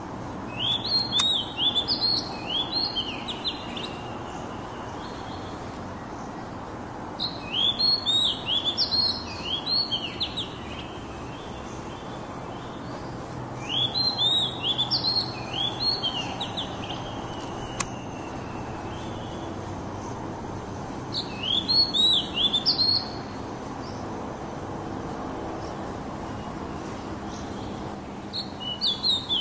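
Oriental magpie-robin calling in short bursts of quick repeated chirps, each burst lasting two to three seconds. The bursts come about every seven seconds: four full ones, and a fifth starting near the end.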